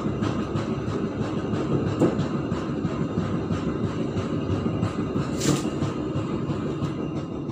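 Passenger train carriage running along the track, heard from its rear: a steady rumble of steel wheels on rail with many irregular metallic clicks and knocks, a sharper knock about two seconds in and a louder clatter about five and a half seconds in.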